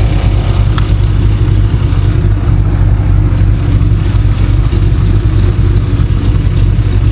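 A boat's GM LS V8 engine running steadily under way, a loud, even drone with no change in pitch.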